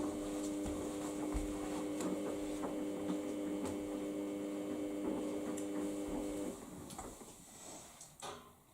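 Samsung washing machine giving a steady electric hum, which stops about six and a half seconds in, followed by faint ticks and knocks.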